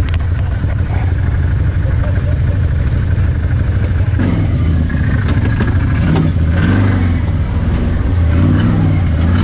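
Off-road vehicle engine running steadily, its pitch rising and falling in revs from about four seconds in.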